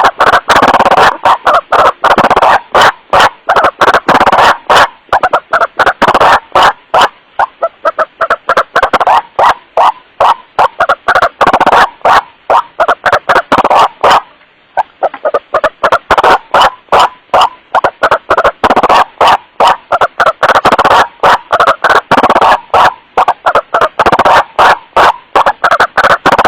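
White-breasted waterhen (kuruak) call recording played for luring: a rapid, unbroken run of harsh repeated 'wak-wak' notes, boosted so loud that it clips. The calling breaks off briefly about 14 seconds in, then resumes.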